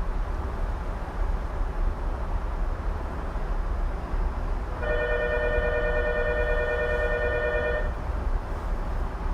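Tokyu 2020-series electric train running at speed, a steady low rumble of wheels on rail heard from inside the car. About five seconds in, a steady two-note tone sounds for about three seconds, then stops.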